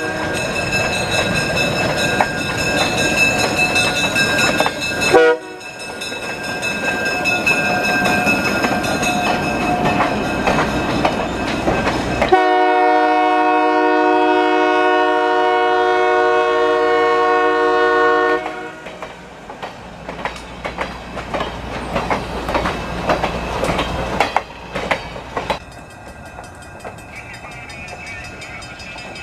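Train running on the rails, then a locomotive horn sounding one long steady blast of about six seconds, followed by quieter rumbling with the clicking of wheels over rail joints. The sound changes abruptly a few times, as if cut between shots.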